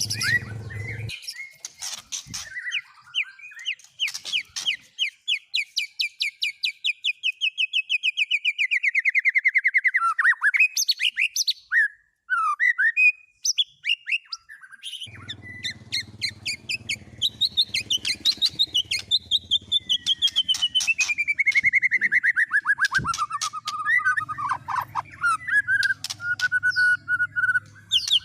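Songbird song: long, rapid trills of repeated notes that slide steadily down in pitch, each lasting several seconds, with short chirps between them. A low hum sits underneath for stretches.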